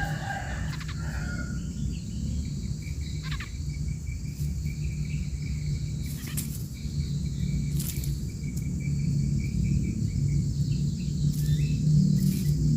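Outdoor ambience: insects trilling steadily over a low, steady hum, with a few short bird chirps in the first second or two and a few faint clicks.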